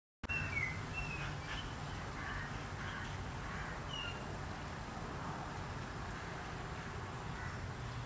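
Outdoor ambience that cuts in abruptly: a few short bird chirps in the first second and a half and once more around four seconds in, over a steady low rumble and a thin, steady high tone.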